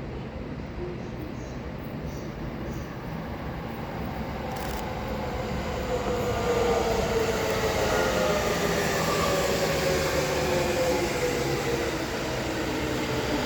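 JR East E231-series electric train pulling into a station. The traction motors whine in several tones that slide slowly down in pitch as the train slows under braking. The whine rises over the wheel and track noise, growing louder about halfway through.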